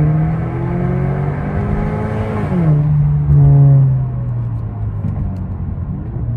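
Genesis G70 2.0T's big-turbo four-cylinder engine pulling under acceleration. Its pitch climbs steadily, then drops sharply at an upshift a little over two and a half seconds in. After the shift it runs lower and steadier, with a brief louder rumble at about three and a half seconds.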